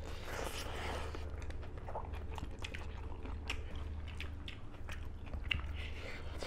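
People chewing and biting into food eaten by hand, with crisp crunches and scattered small clicks of the mouth and fingers.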